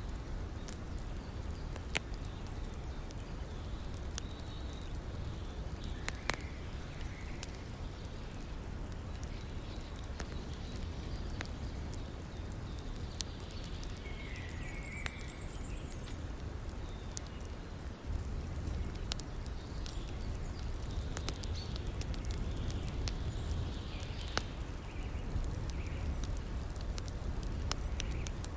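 Wood fire crackling with scattered sharp pops over a steady low rush of river water, with a few brief high bird chirps partway through.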